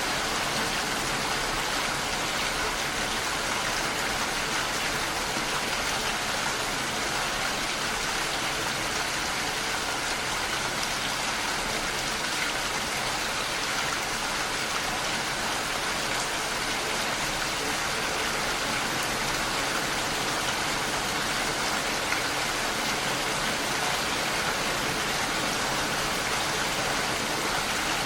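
Heavy rain falling steadily, drops pattering against a window pane in an even hiss.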